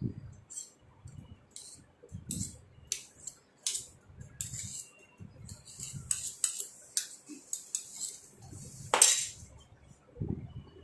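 Light clinks and scrapes of kitchen utensils and dishes being handled: a string of short clicks with soft knocks, and one louder clatter about nine seconds in.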